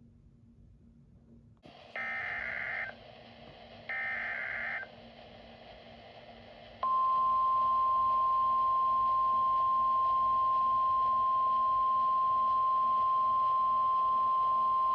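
NOAA Weather Radio alert signal: two short bursts of digital SAME header data about two and four seconds in, then the steady 1050 Hz warning alarm tone from about seven seconds in. This is the sequence that announces a new warning message.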